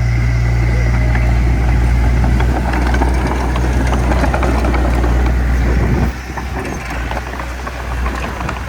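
Heavy diesel engine of earthmoving machinery running steadily with a deep hum. The hum drops away sharply about six seconds in, leaving a lower, rougher engine noise.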